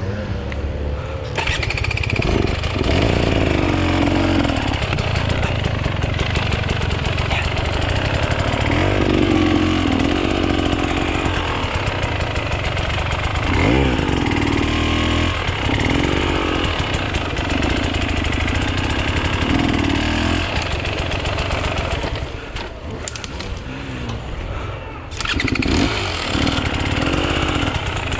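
Enduro dirt bike engine revving up and falling back again and again under changing throttle, with a quieter spell about two-thirds of the way through before it revs again.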